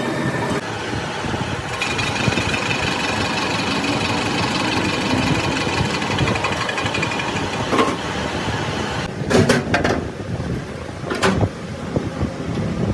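Workshop machinery running steadily with a thin high whine for a few seconds, then a few sharp knocks near the end.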